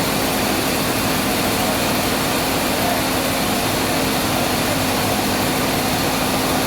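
Sawmill machinery running steadily: a constant loud hum with a wide noisy rush over it, unchanging throughout.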